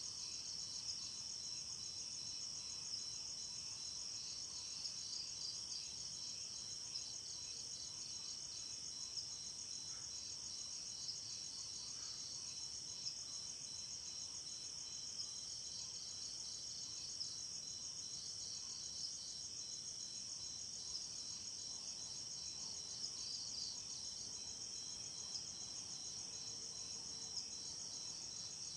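A chorus of night insects, crickets chirping steadily in a dense, fast high-pitched trill that never stops.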